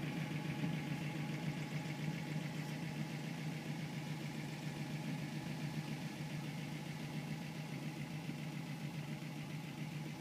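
1955 Ford Crown Victoria's engine idling steadily.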